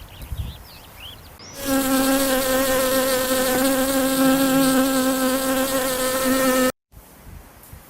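A flying insect buzzing close to the microphone: one steady, even-pitched buzz that starts about a second and a half in, lasts about five seconds and cuts off abruptly.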